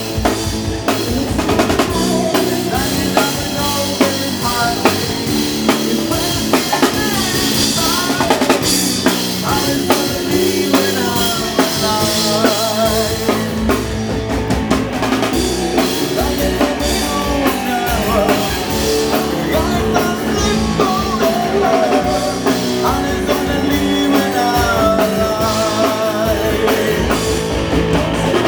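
A band playing a rock-style song, with a drum kit keeping a steady beat under a singing voice.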